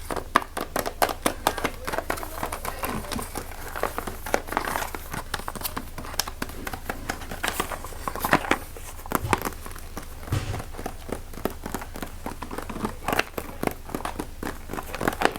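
Fast, close-up crinkling and crackling, like packaging or plastic being squeezed and rubbed near the microphone as an ASMR trigger, with many sharp little clicks throughout.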